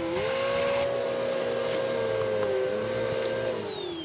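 Vacuum cleaner running with a steady whine that dips briefly in pitch a couple of times. Near the end it is switched off and the motor winds down with a falling whine.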